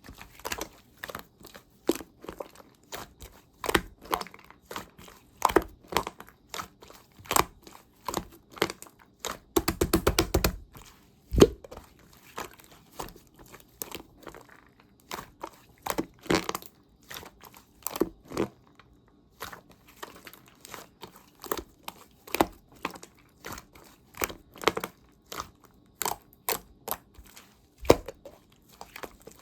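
Slime being squeezed and pressed by hand, giving irregular crisp crackles and pops, with a fast run of clicks about ten seconds in.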